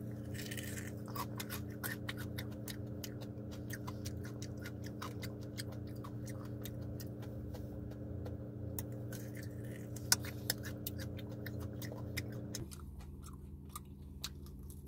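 Close-up chewing and crunching of crispy fried pork knuckle (crispy pata), with many quick wet clicks and a couple of sharper cracks about ten seconds in. A steady low hum runs underneath and changes and quietens near the end.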